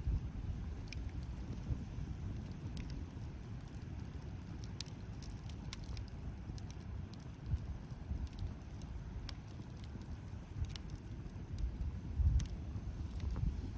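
Wood campfire crackling, scattered sharp pops and snaps over a steady low rumble.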